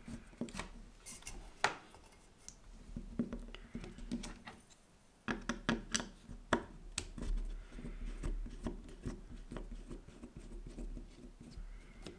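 Small clicks, taps and light scraping of a screwdriver working screws and handling the plastic and metal parts of an LGB garden-scale model locomotive's bogie and motor block.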